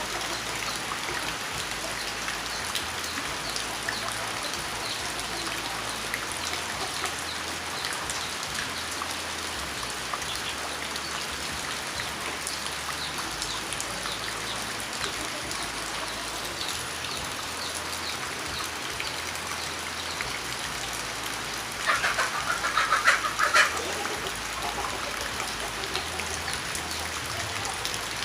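Rain falling steadily on a surface, a continuous patter of individual drops. About 22 seconds in, a louder sound stands out over the rain for about two seconds.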